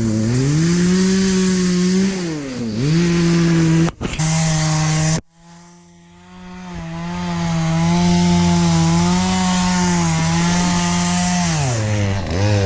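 Two-stroke chainsaw running at high revs, its engine note dipping and recovering twice. The sound cuts out sharply about five seconds in, then builds back up to full speed.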